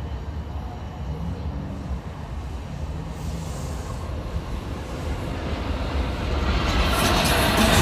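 Long Island Rail Road diesel push-pull train of bilevel coaches approaching: a low rumble that grows louder over the last couple of seconds as wheel-on-rail noise builds.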